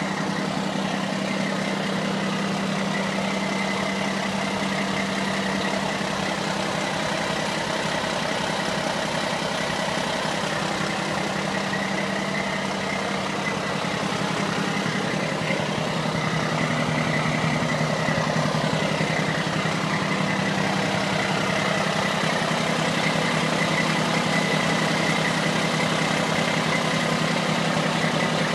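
Mack vacuum truck's turbocharged diesel engine idling steadily, with a faint steady whine above it, getting a little louder about halfway through.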